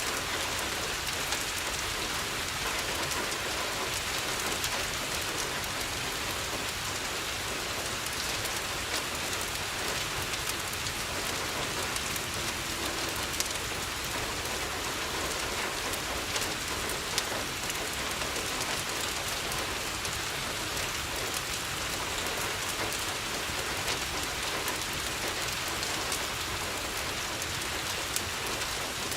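Steady rain falling on a window, with scattered sharp clicks.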